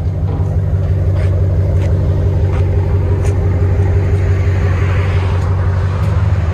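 RAM 1500's 5.7L HEMI V8 idling through a Black Widow Race Venom muffler with the stock resonators kept, a steady low exhaust rumble.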